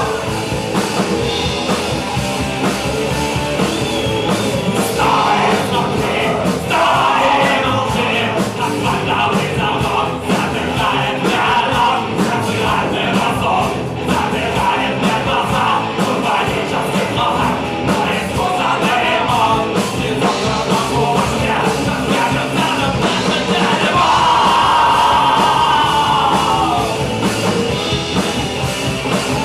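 Punk rock band playing, with loud singing and shouted vocals over the band. Near the end a long held note bends downward and breaks off.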